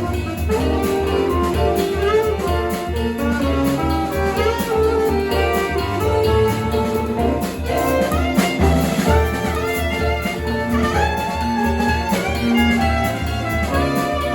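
Live jazz band playing: alto saxophone with piano, keyboard and drums over a steady beat.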